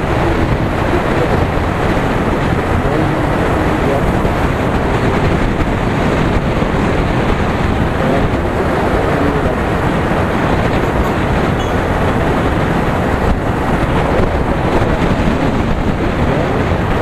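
Yamaha R15 V3 motorcycle being ridden at a steady speed: wind rushing over the microphone and road noise cover the engine's running.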